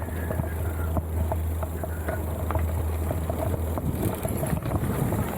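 Mountain bike rolling over a rough trail: a steady low rumble on the camera microphone, with many scattered small clicks and rattles from the tyres and bike.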